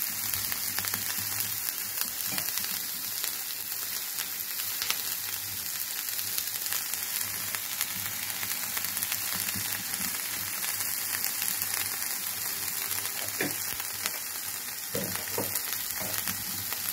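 Chopped green capsicum frying in a non-stick pan, a steady high sizzle. A few light knocks come in the last few seconds.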